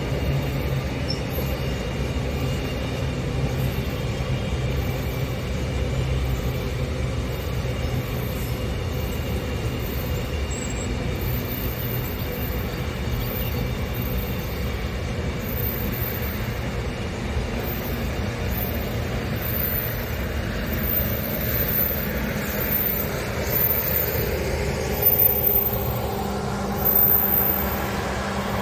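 Container freight train rolling past, its loaded flat wagons making a steady rumble and rattle of wheels on rail. Near the end there are a couple of louder knocks.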